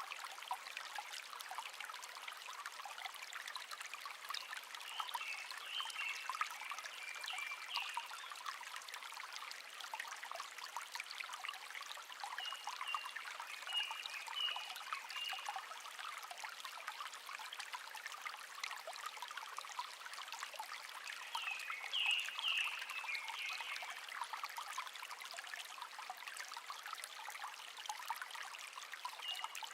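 A small stream trickling and babbling steadily, with a songbird singing a short chirping phrase four times, roughly every eight seconds.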